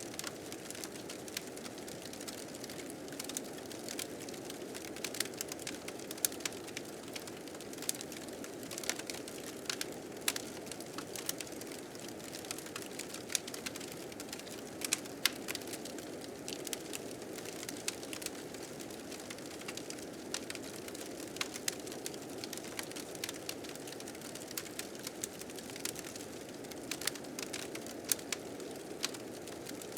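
Wood fire crackling with frequent sharp pops, over the steady rushing noise of blizzard wind.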